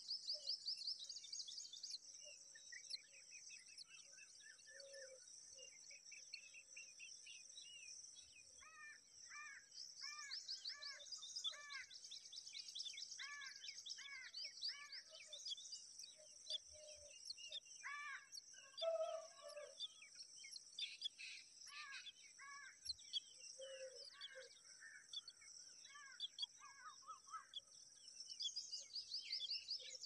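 Faint birdsong: runs of short, arching chirped notes repeated over and over, over a steady high-pitched shrill trilling.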